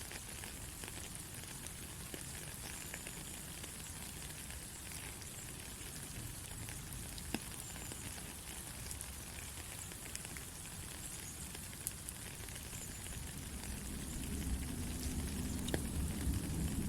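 Steady rain falling, an even hiss with scattered drop ticks. A deeper low rumble builds in the last few seconds.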